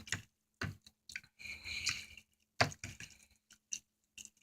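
A fork stirring half-cooked ramen noodles in water in a container: a few sharp clinks of the fork against the container, with a wet squishing stir in between.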